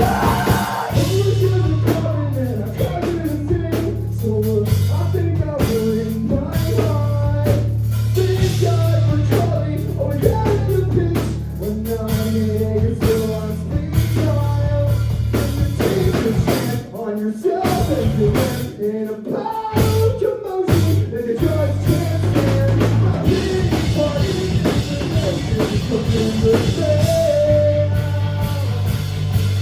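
Live rock band playing a song with drum kit, bass and electric guitar, kicking in suddenly at full volume at the start and carrying a wavering melodic line over a steady, driving beat.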